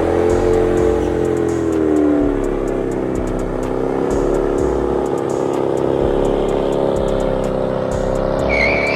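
Car engine running under load at fairly steady revs; its note dips about two seconds in, then climbs slowly. A brief high squeal comes near the end.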